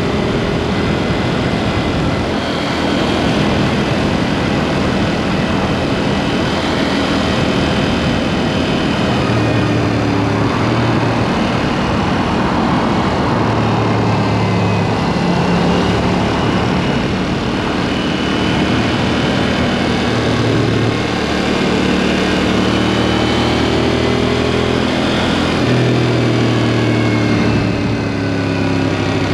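KTM Duke 790's parallel-twin engine running through a SpeedPro Cobra SPX aftermarket exhaust while riding, its pitch stepping up and down with throttle and gear changes. A rushing noise swells about halfway through.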